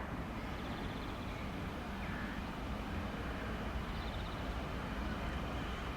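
Steady low rumble of a train running.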